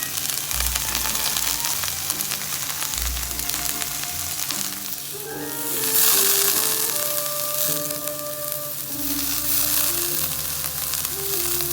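Food sizzling as it fries in a hot pan, the sizzle growing louder about six seconds in.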